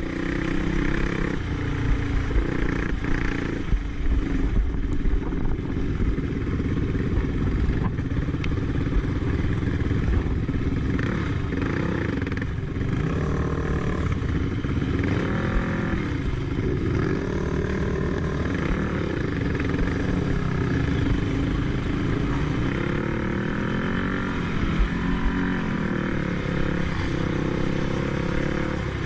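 Racing quad's engine running hard, its pitch rising and falling again and again as it is revved through the gears. Frequent knocks and rattles are heard over it.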